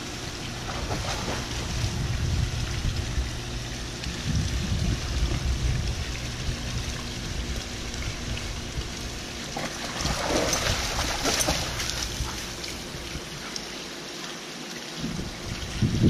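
Water splashing and trickling in a backyard swimming pool as a dog swims across it, with the spillway waterfalls pouring in and an uneven low wind rumble on the microphone. The splashing gets louder about ten seconds in.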